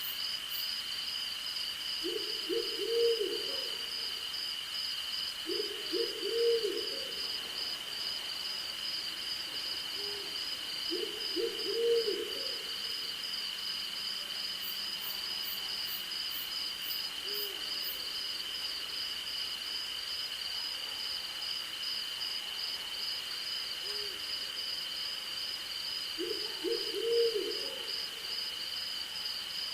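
An owl hooting in four short runs of several quick notes, with a few single soft hoots between them. Under it, crickets or other insects keep up a steady high trill, and a second insect song pulses rapidly.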